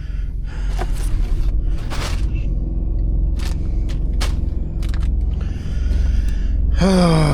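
Steady low hum of the semi truck's auxiliary power unit running, with a few sharp clicks and knocks of things being handled in the cab. Near the end a man's long vocal sound falls in pitch.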